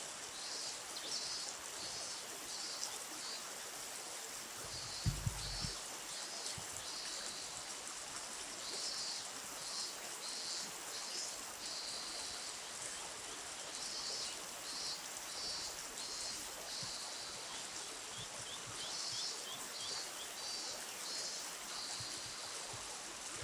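Steady rush of flowing river water, with high-pitched chirps coming in repeated bursts over it. A single low thump about five seconds in.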